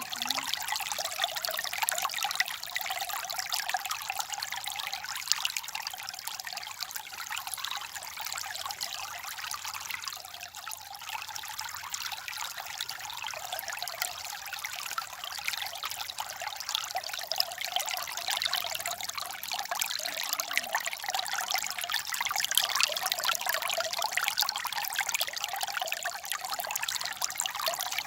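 Small stream babbling: a steady trickling splash of running water, full of fine splashes, with little low rumble.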